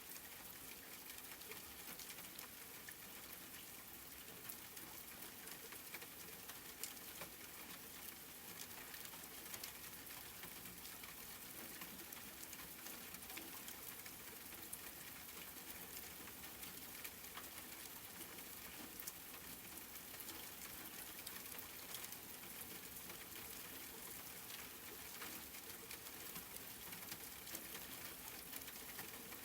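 Steady rain falling, a soft even hiss with many fine droplet patters.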